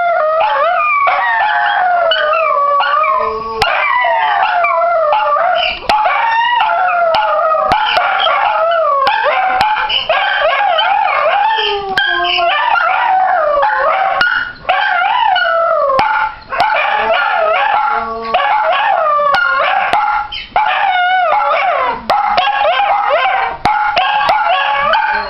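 Dachshunds howling together, several overlapping wavering howls rising and falling in pitch and running on with only short breaks.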